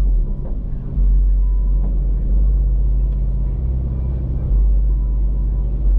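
Car engine running with a steady low rumble while driving at cruising pace. It dips briefly in level just after the start and again about four seconds in.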